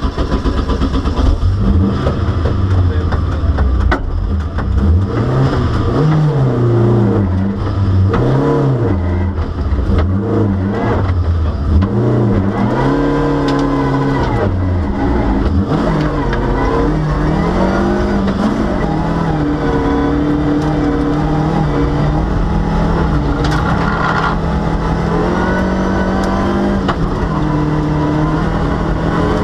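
Volvo rally car's engine at full stage pace, revving up and falling back again and again through the first half, then holding a fairly steady high note.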